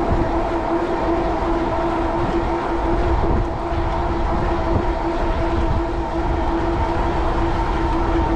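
Strong wind buffeting the microphone on a moving e-bike, a dense low rumble, with a steady droning whine held at one pitch throughout.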